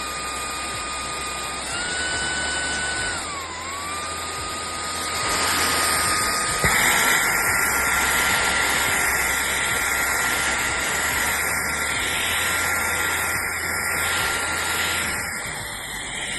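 Shark cordless stick vacuum running, its high motor whine stepping up and dipping in pitch a few times. About seven seconds in, a louder rush of air joins it and holds steady.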